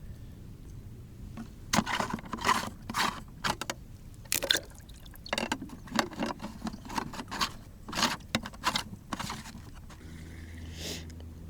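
Water splashing and sloshing in short irregular bursts. Near the end a steady low hum comes in.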